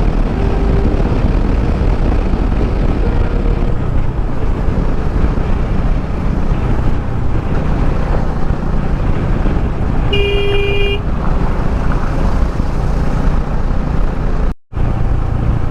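Motorcycle on the move: steady engine and wind rush. A vehicle horn honks once, briefly, about ten seconds in. The sound cuts out for a split second near the end.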